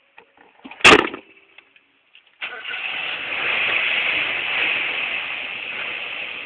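A single sharp knock about a second in, then a Holden Gemini's engine starts abruptly and runs steadily, easing off slightly toward the end.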